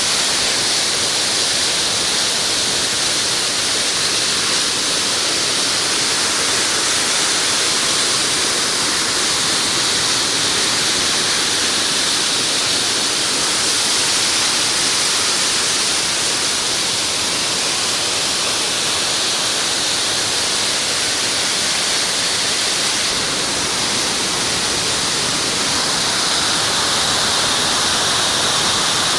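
Waterfall rushing: a loud, steady roar of falling water with most of its energy in the hiss range.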